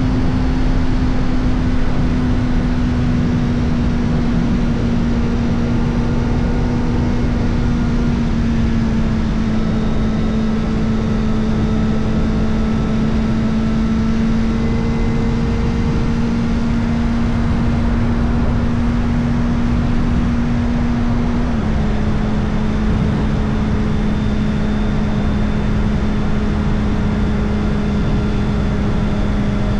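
Kawasaki Ninja ZX-4RR's 399 cc inline-four running at a steady cruise through an Arrow Indy Race Evo titanium exhaust with the dB-killer baffle fitted. Its pitch sags slightly and drops a little about two-thirds of the way through. Heavy wind and road rumble sit underneath.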